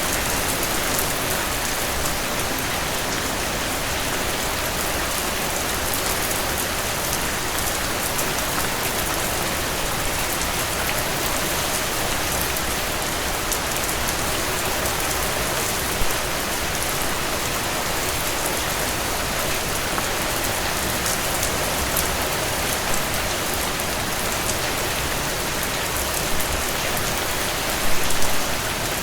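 Heavy rain falling steadily as a dense, even hiss. A brief louder pop comes about halfway through, and a short cluster of louder pops comes just before the end.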